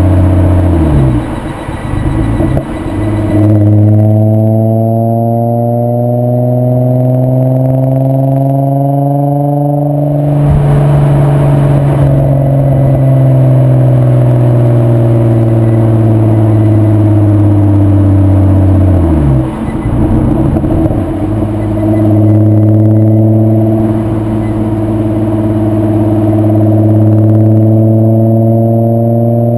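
VW 2.8 VR6 24-valve engine running through a straight-through Milltek non-resonated exhaust while driving. Its pitch drops about a second in, climbs steadily under acceleration, then holds near-level after a change about ten seconds in. It drops again about nineteen seconds in and climbs slowly once more.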